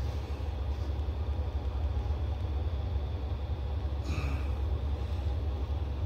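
A steady low rumble, with one brief faint sound about four seconds in.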